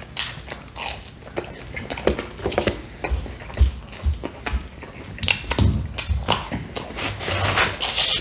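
Close-miked chewing and biting of pizza crust: irregular crunches and wet mouth sounds. Near the end comes the scrape of a pizza slice being pulled across the cardboard box.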